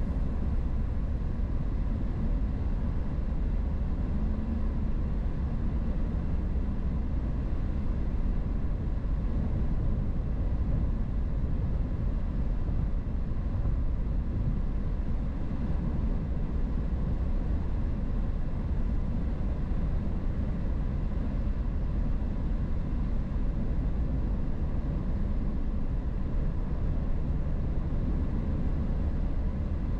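Steady road and engine noise of a car being driven, an even rumble with no breaks.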